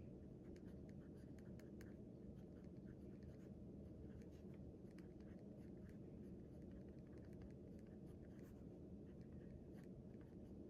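Faint writing on paper: short, irregular scratches and strokes of a writing tool, over a steady low hum of room noise.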